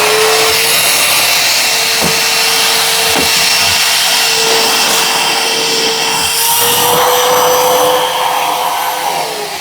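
Canister vacuum cleaner switched on and running with a steady motor whine over a loud rush of air, with a few brief clicks of things knocking through it; near the end it is switched off and the motor winds down with a falling pitch.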